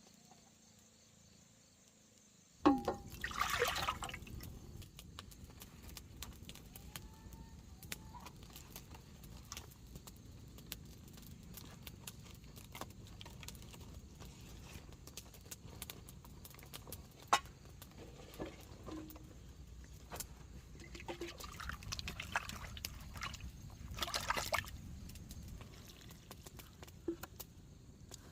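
Water pouring and splashing, loudest in two spells about three seconds in and again near the end, over a steady low rumble with scattered clicks and knocks.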